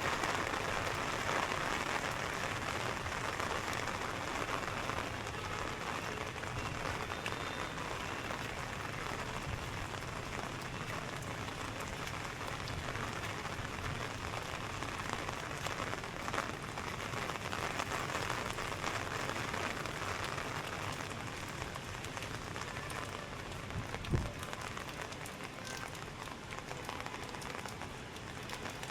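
Steady rain falling on hard surfaces, an even hiss, with a single low thump about three-quarters of the way through.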